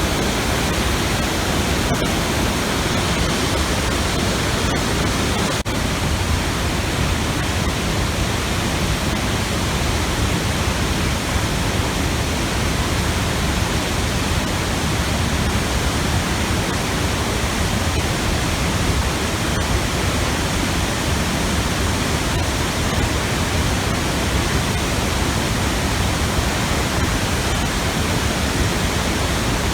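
A 30-metre waterfall plunging into a pool, a loud, steady rush of falling water that never lets up.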